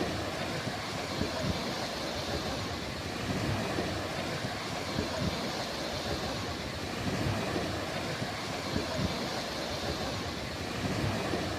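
Sea surf washing on the shore with wind, a steady rushing noise that swells gently in level every few seconds.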